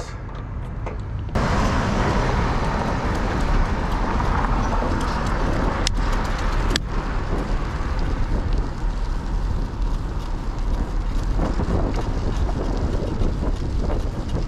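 Steady rushing noise of wind buffeting the microphone while riding a bicycle along a road, starting abruptly about a second in, with two sharp clicks near the middle.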